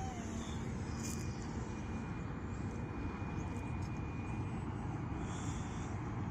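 Small electric RC airplane in flight, its motor and propeller giving a thin, steady high whine that fades about four seconds in, over low wind rumble on the microphone.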